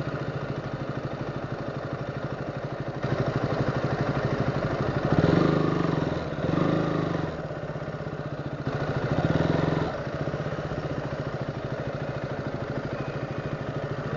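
KTM Duke motorcycle's single-cylinder engine idling with a steady, even pulse, swelling louder briefly three times, around five, seven and nine seconds in.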